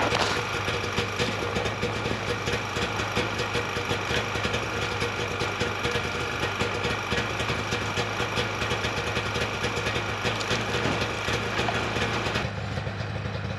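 Snowmobile engine idling steadily with a fast, even flutter; near the end the sound turns duller and a little quieter.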